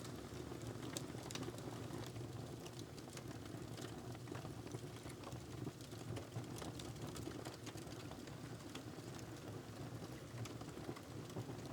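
Wood fire crackling in a fireplace: irregular sharp crackles and pops over a steady low rumble of the flames.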